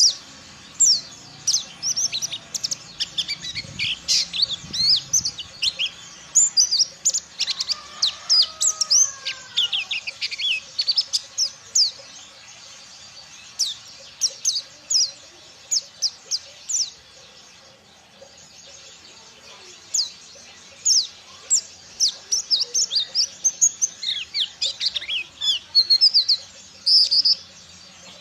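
Mountain white-eye (pleci dakun) singing: fast runs of high, twittering chirps lasting several seconds each, broken by short pauses.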